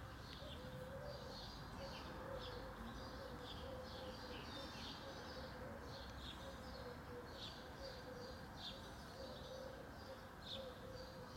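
Small birds chirping in short, high calls, one or two a second, faint against a steady low hum and background outdoor noise.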